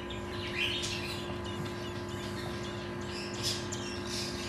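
A fledgling bird giving a few short, high begging chirps while it gapes for food, over a steady low hum.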